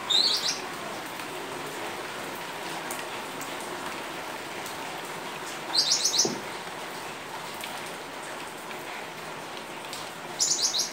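Steady rain falling on a wet paved yard. Short high bird chirps break in three times: at the start, about six seconds in, and near the end.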